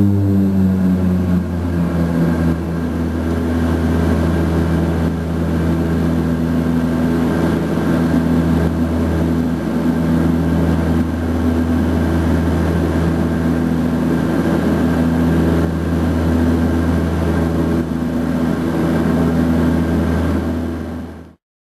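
Twin turboprop engines and propellers of a de Havilland Canada DHC-6 Twin Otter running after take-off: the drone drops in pitch over the first second or so as the engines settle from take-off power, then holds as a steady hum. The sound cuts off suddenly near the end.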